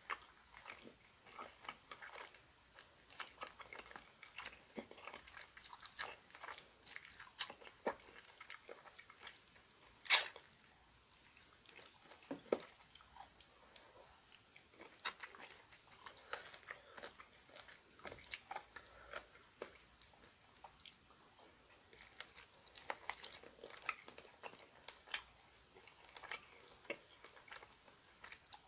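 Chewing and biting on bone-in chicken feet: a dense run of small crunchy clicks, with one sharp, much louder click about ten seconds in.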